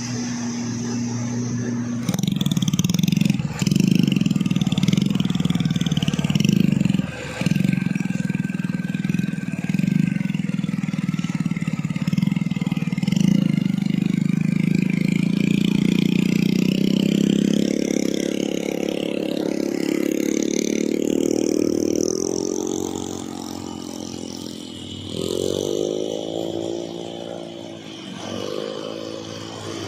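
Heavy container truck's diesel engine pulling hard under load up a steep climb, a steady drone that rises in pitch past the middle, then a few short revs near the end that climb and drop.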